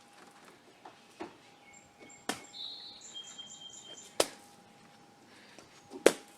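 Water balloons landing and bursting: several sharp splats a second or two apart, the loudest about two, four and six seconds in. Between them a bird chirps in quick high notes.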